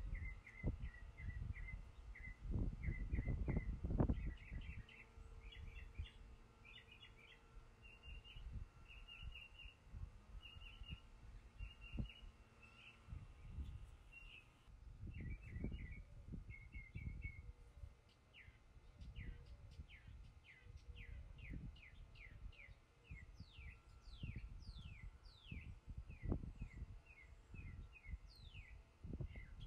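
Small birds chirping: runs of short, quick chirps, then, a little past halfway, a repeated series of fast falling whistled notes. Low bumps and rumbles on the microphone underneath, loudest in the first few seconds.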